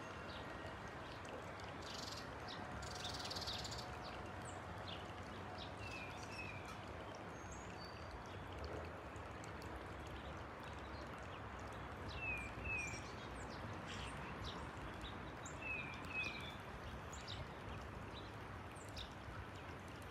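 Small songbirds chirping: a pair of short falling chirps repeated every few seconds, with other brief high calls, over steady faint outdoor background noise.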